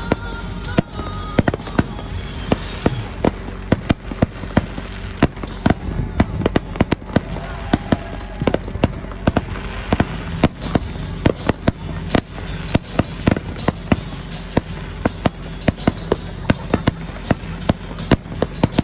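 Aerial firework shells bursting overhead in a rapid, continuous run of sharp bangs, several a second, with steady music playing underneath.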